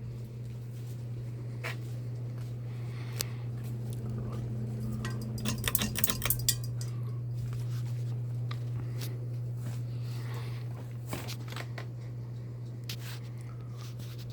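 Bahama 42-inch ceiling fan running with a steady low motor hum, with scattered sharp clicks and a quick cluster of rattling clicks about five to six seconds in.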